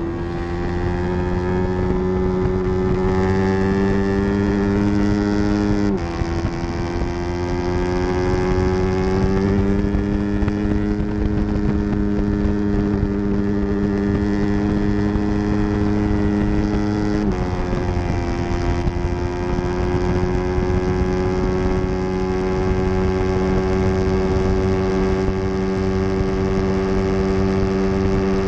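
Yamaha R3's parallel-twin engine running at high revs, with two sudden drops in pitch, about six seconds in and again past the middle, as gears are upshifted; between them the pitch climbs slowly.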